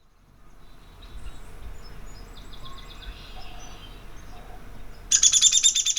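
Faint outdoor ambience with soft, high bird notes, then, about five seconds in, a loud, rapid trill of high notes from a bird.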